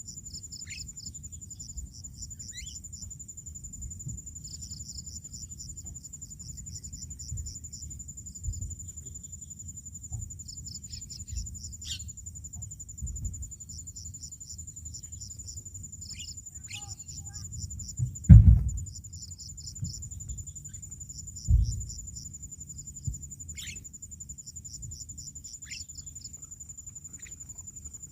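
Steady high-pitched insect trill with a pulsing chirp over it, with a few short bird calls scattered through. Two sudden heavy thumps about 18 and 21 seconds in are the loudest sounds, over a low rumble.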